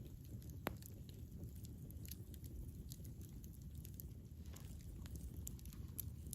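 Campfire burning: wood crackling with irregular sharp pops over a steady low rumble of the flames, with one louder pop about a second in.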